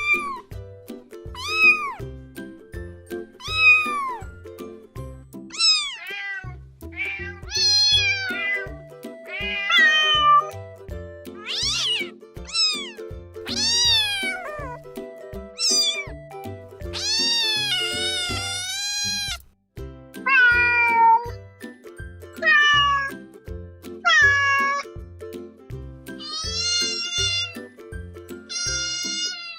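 Kittens meowing over and over, a call every second or two, with one long drawn-out meow about two-thirds of the way through, over background music with a steady beat.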